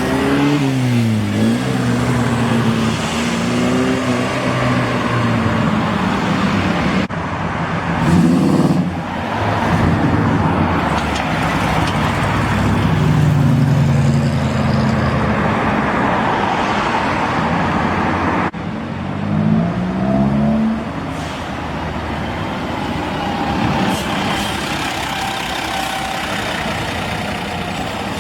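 Classic cars driving past one after another, engines revving and running with their pitch rising and falling as they pull away. The sound cuts off abruptly twice.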